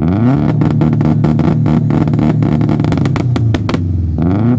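Subaru Impreza's turbocharged flat-four revved up and held at high revs, with a rapid string of pops and bangs from its anti-lag system. The revs drop briefly near the end, then rise again.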